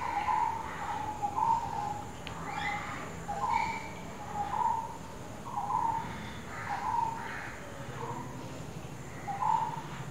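A bird calling over and over, a short, slightly rising note about once a second, with fainter, higher chirps from other birds in between.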